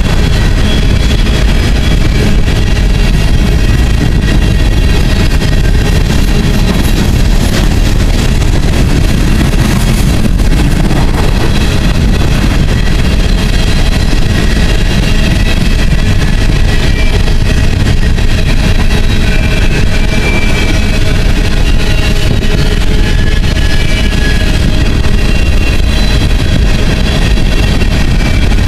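Empty coal hopper cars rolling past close by: a steady, loud rumble of steel wheels on rail, with thin high-pitched wheel squeals coming and going.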